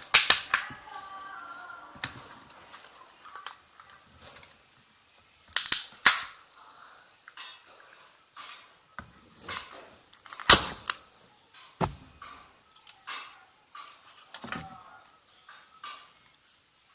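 Sharp cracking and clicking of a laptop battery's plastic casing being pried apart, its clips snapping in irregular bursts, a few loud cracks among fainter clicks and scrapes.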